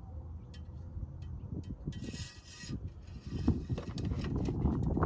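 Hands working in a car's engine bay: scattered clicks and knocks, with a short scraping slide about two seconds in as the oil dipstick is pushed back down its tube.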